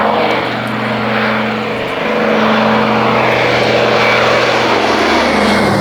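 Twin radial engines of a Consolidated PBY-5A Catalina flying boat running steadily as the aircraft flies past, a propeller hum with a sweeping, swirling whoosh over it.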